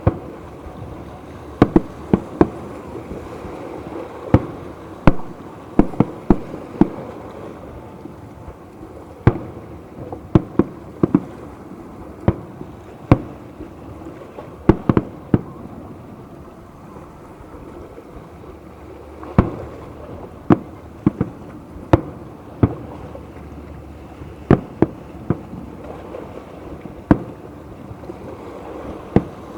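Aerial fireworks shells bursting: sharp bangs at irregular intervals, often two or three in quick succession, over steady background noise.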